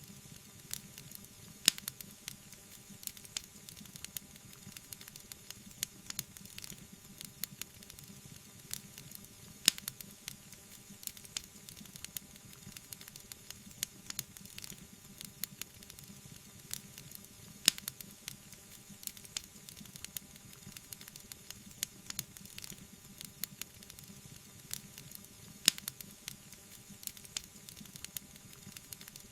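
Wood fire crackling in a fireplace: a dense stream of small snaps and ticks over a soft hiss, with a louder sharp pop about every eight seconds.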